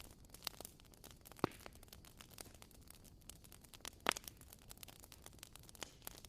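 Wood fire crackling: scattered small pops over a faint hiss, with two louder snaps about a second and a half and four seconds in.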